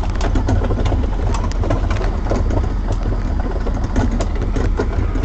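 Tractor engine running steadily under a pulled cart, with the cart clattering and knocking irregularly as it rides over bumpy ground.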